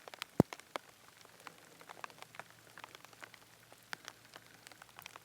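Scattered raindrops landing close by, heard as irregular drips and ticks, with one sharper tap about half a second in.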